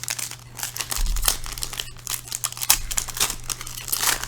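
Crinkly trading-card pack wrappers and box plastic being crumpled and handled in irregular bursts, with a few soft bumps against the table. A faint steady low hum runs underneath.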